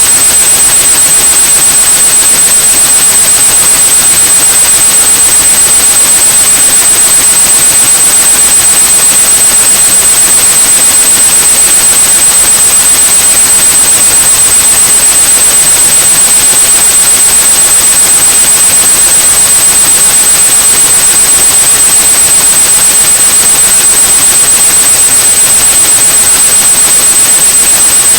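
Steady white noise with a single high, continuous 8100 Hz pure tone sounding over it: a synthetic tinnitus-masking sound. It runs loud and unchanging.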